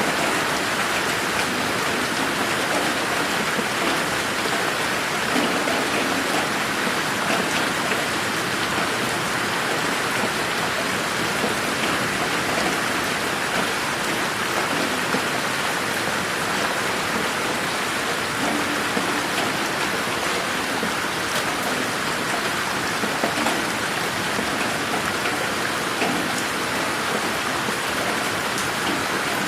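Steady rain falling in a garden: a dense, even hiss with many individual drops ticking through it. The audio is processed as '8D', panned so that it moves around the listener.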